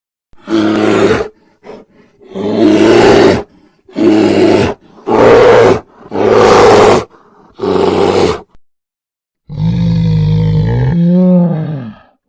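Bear roaring: six harsh roars of about a second each, then a longer, lower call whose pitch wavers.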